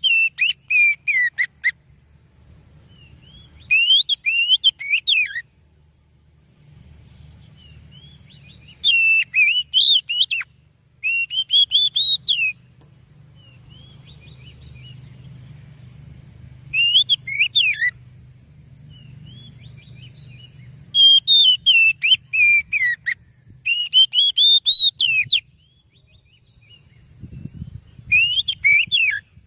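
Oriental magpie-robin (kacer) singing: about eight short bursts of quick, rattling whistled notes that slide up and down, with pauses between them, over a faint low hum.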